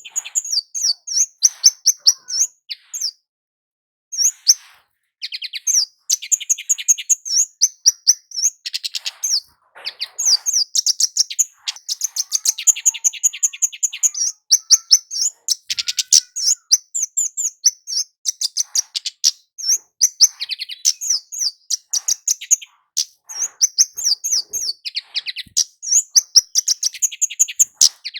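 Kemade jawa, a small flowerpecker, singing: rapid series of high, sharp chirps and buzzy trills, almost without pause, with a short break about three seconds in.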